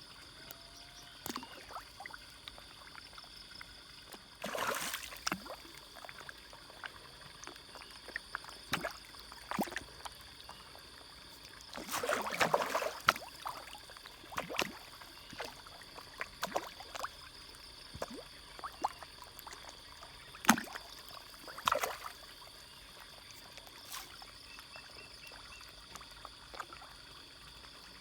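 Fish feeding at the surface of a pond: scattered small pops and splashes as they snap at the food, with a few bigger splashes about 5, 12 and 21 seconds in.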